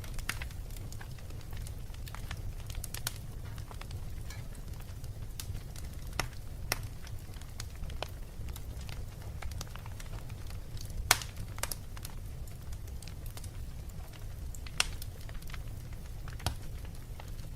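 Wood fire in a fireplace crackling: a low steady rumble under scattered sharp pops, the loudest about eleven seconds in.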